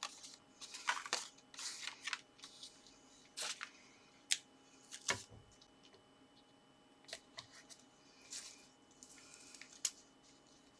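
Paper and card being handled: intermittent soft rustles and a few sharp small clicks and ticks.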